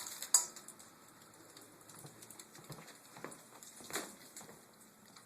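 Scattered light clicks and taps of a dog's claws on a hard floor as it moves about, with one sharp click about a third of a second in.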